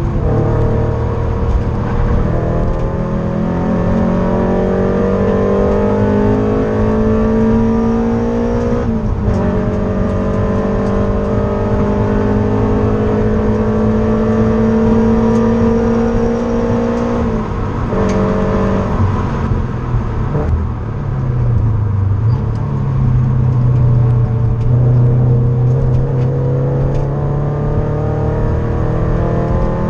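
Subaru BRZ's flat-four boxer engine heard from inside the cabin, accelerating hard on track. Its pitch climbs steadily, drops sharply at upshifts about nine and seventeen seconds in, sags for a moment around twenty seconds in, then climbs again, over steady tyre and wind noise.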